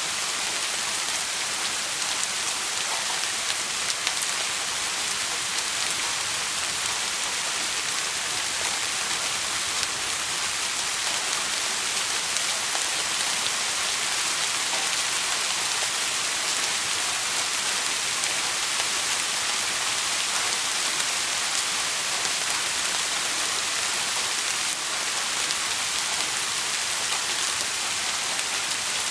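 Steady rain falling, an even hiss that is strongest in the high range, with scattered faint ticks of drops.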